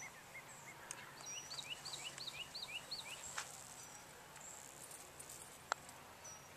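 A songbird singing a quick run of repeated short whistled notes, about four a second, with a single sharp click near the end.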